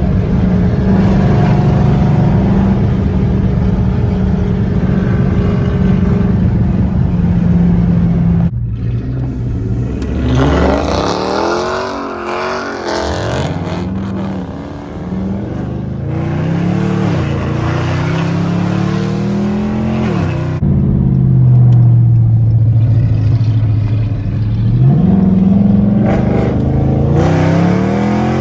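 Straight-piped 5.7-litre Hemi V8 exhaust of a Dodge muscle car, loud: the engine holds a steady high note for about eight seconds, drops off sharply, then revs up and down several times, settles into a steady lower drone, and rises again near the end.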